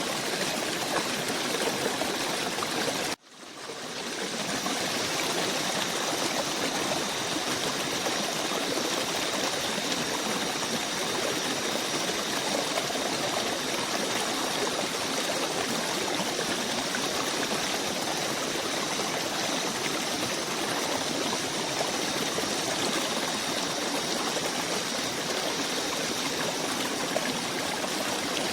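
Stream water running steadily. About three seconds in, the sound cuts out abruptly and fades back in over about a second.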